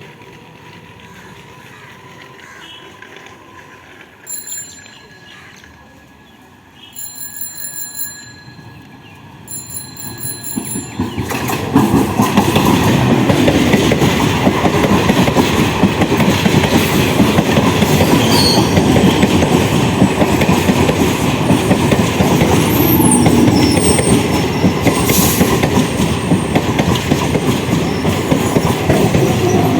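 Electric local train (EMU) running past on the rails: quiet at first, it builds up over a couple of seconds about ten seconds in and then stays loud, a dense rumble of wheels on track with some wheel squeal. Before that, a few short high-pitched steady tones sound.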